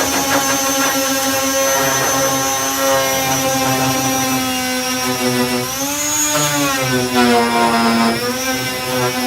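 Electric disc sander running with 240-grit discs on body filler, a steady high motor whine whose pitch sags and recovers a couple of times.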